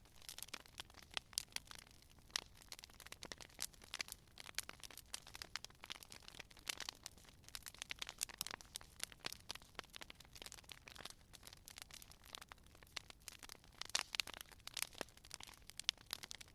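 Wood fire crackling: a dense, irregular stream of small pops and snaps over a faint hiss, with a few louder pops about fourteen seconds in.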